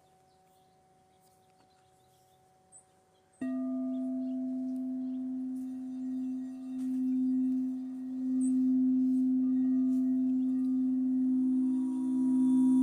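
Crystal singing bowls. After a few seconds of near silence, a bowl sounds suddenly and rings on as one steady low tone that swells and fades in slow waves. Near the end a second, higher-pitched bowl joins in.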